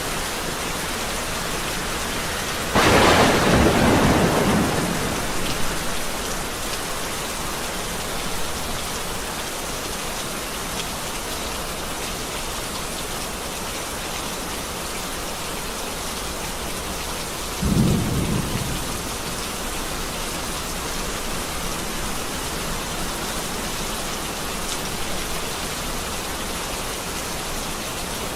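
Steady rain falling, with a sudden loud thunderclap about three seconds in that rumbles away over a couple of seconds. A second, shorter and deeper crack of thunder comes about two-thirds of the way through.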